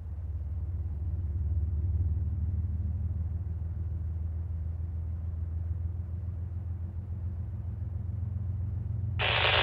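Low, steady rumble of an approaching Norfolk Southern diesel train heard from a distance, swelling a little about a second in. A short, louder, brighter burst of sound breaks in near the end.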